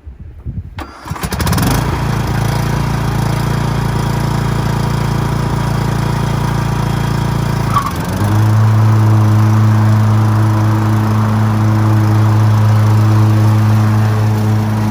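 Lawn mower engine started with its key, catching at once about a second in and then running steadily. About eight seconds in its note drops and it gets louder, and it keeps running that way.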